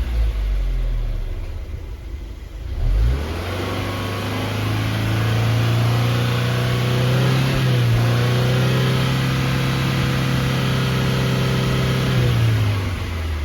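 Subaru WRX S4's FA20 2.0-litre turbocharged flat-four engine being revved: the revs fall back near idle at the start, a quick blip follows, then the engine is held at raised revs for about eight seconds and drops back down near the end.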